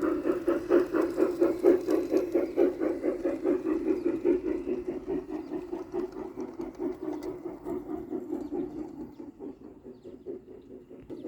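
Model Santa Fe steam locomotive running on the layout with a fast, even pulsing rhythm. It fades away about two-thirds of the way through and grows louder again near the end.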